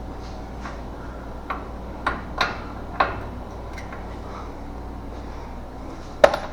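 A few scattered metal clicks and clinks from hand tools being worked on a car's front suspension, the loudest near the end, over a steady low hum.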